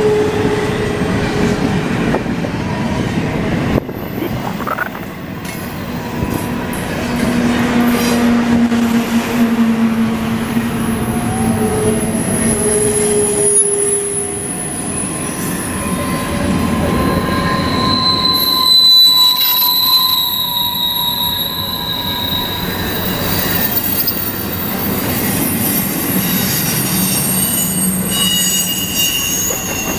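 CSX container train's cars rolling past with steel wheels squealing on the rail: long, steady squeals at several different pitches come and go over the continuous rumble and clatter of the wheels.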